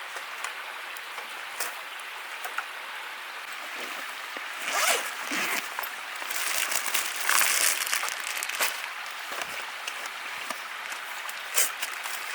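Rustling and crinkling handling noises, loudest in two stretches in the middle, over a steady hiss with scattered small clicks.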